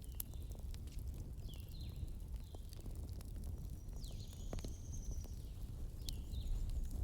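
Wood fire crackling with scattered sharp pops over a low, steady wind rumble. Several short high squeaks and a longer high whistle about four seconds in.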